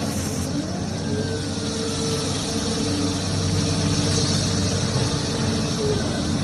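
Excavator's diesel engine running steadily, with a held whine over the engine noise.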